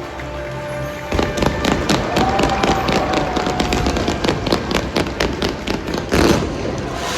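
Pyrotechnics firing in a stadium: a rapid run of sharp bangs and crackles that starts about a second in and goes on for several seconds, over music.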